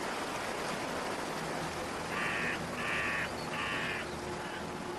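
A crow-like bird calls three times in quick succession with harsh caws, each about half a second long, over a steady hiss.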